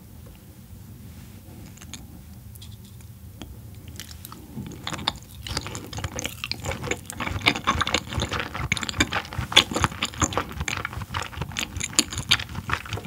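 Close-miked chewing of a mouthful of raw yellowtail sashimi: wet smacks and squishy clicks. They start about four seconds in and grow dense and continuous.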